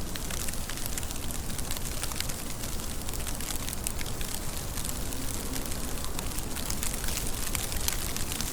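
Steady rain, dense and even, with many tiny sharp drop ticks over a constant hiss.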